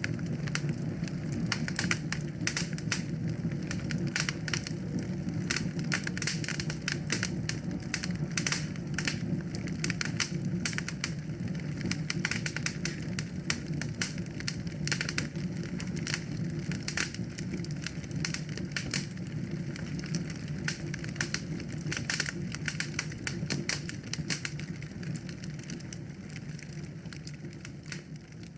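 Wood fire in a fireplace crackling and popping steadily over a low rumble of the flames, fading out near the end.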